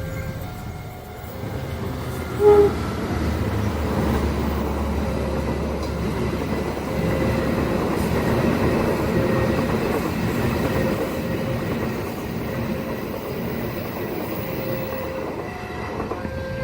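A train passing at speed with a steady rumble and clatter of wheels on the rails. About two and a half seconds in there is a brief loud tone.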